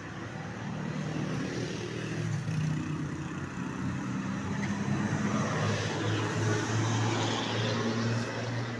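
Road traffic: a motor vehicle's engine running close by, growing louder over the first few seconds and easing off near the end, over a steady hiss of traffic.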